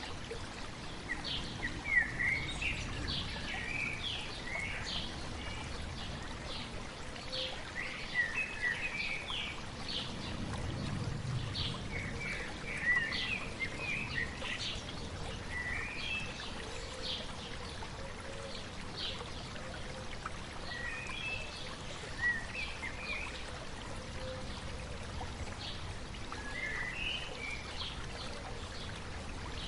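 A stream babbling steadily, with small birds chirping and calling in quick, high notes throughout.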